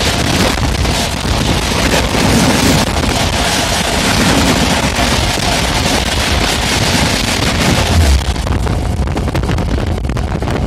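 Two trains crossing at speed, the 12378 Padatik Express and an EMU, heard from an open train doorway: a loud rush of the other train passing close alongside, with wind buffeting the microphone. About eight seconds in the rush ends with a heavy thump as the last coach clears, leaving the lighter rattle and clicking of the carrying train's wheels on the track.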